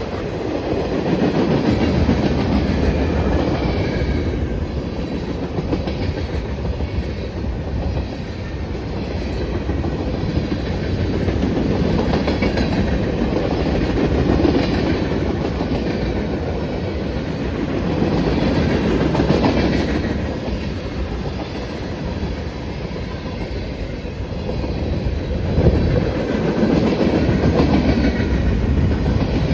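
A train's cars rolling past on the track, a continuous loud rumble of wheels on rail that swells and fades every few seconds.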